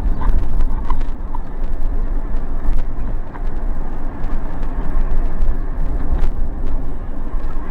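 Road and engine noise of a slowly moving car: a steady low rumble, with a few light ticks in the first second and a half.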